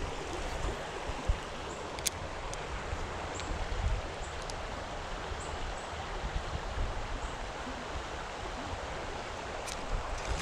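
Creek water running steadily over rocks, with a few faint clicks.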